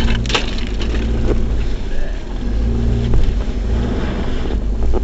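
Toyota RAV4's engine running steadily under load as it climbs a rough, snowy dirt trail, heard from inside the cabin, with a few short knocks from the rough ground.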